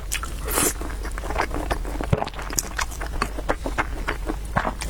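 Close-up eating sounds: a dense, irregular run of short clicks and smacks of chewing and mouth noises, over a steady low hum.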